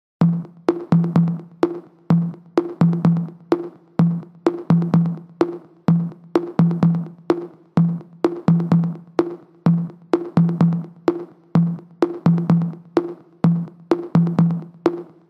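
Electronic music: a drum-machine beat of repeating pitched low drum hits with sharp clicks on top, without vocals.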